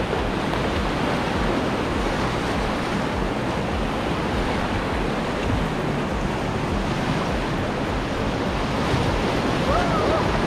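Whitewater of a river rapid rushing around a raft: a steady, loud wash of water noise with wind buffeting the microphone. A voice calls out faintly near the end.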